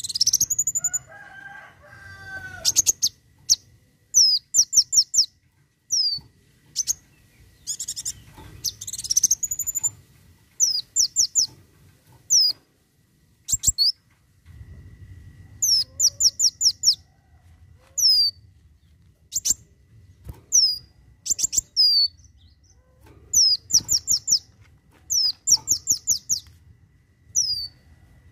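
Kolibri wulung (a sunbird) singing in rapid 'tembakan' bursts: clusters of three to five sharp, high, quickly falling notes, repeated every second or so with short gaps between.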